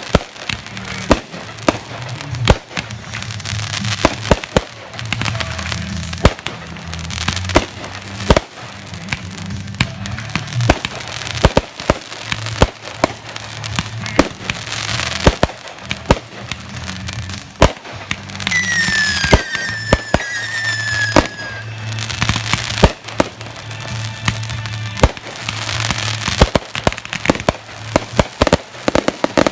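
Aerial fireworks display: rapid, repeated bangs of shells bursting over a continuous crackle. About two-thirds of the way through, a few whistling fireworks sound, each falling slightly in pitch.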